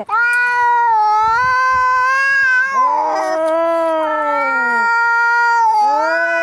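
Angry cat caterwauling: long, drawn-out yowls, three in a row with hardly a break, each wavering and sagging in pitch toward its end.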